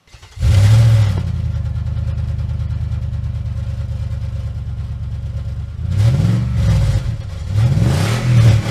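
Car engine that starts abruptly, idles steadily for several seconds, then is revved up and back down twice near the end.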